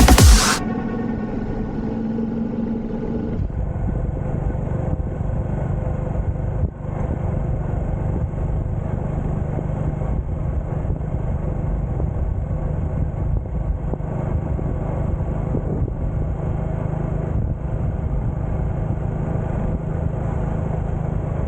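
Electronic music cuts off about half a second in, leaving a motorcycle running on the road: a steady engine and wind rumble picked up by a camera mounted on the bike.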